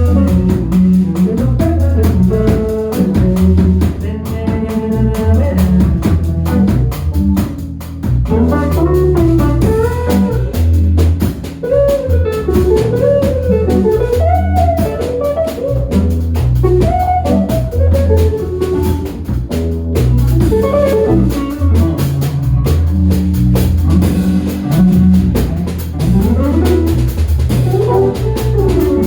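Small jazz-pop band playing an instrumental: guitar and drum kit over steady low bass notes, with a lead melody that bends and slides through the middle register.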